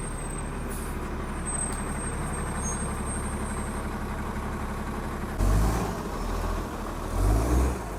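City bus engine running steadily, then two louder surges near the end with a hiss, as a bus pulls through the stop.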